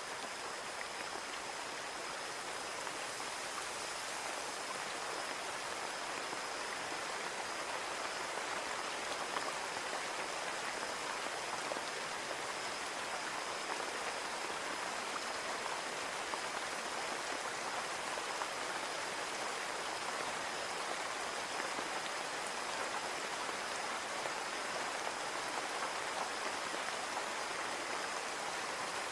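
Steady rain falling and pattering on a window pane, an even hiss of drops without pause.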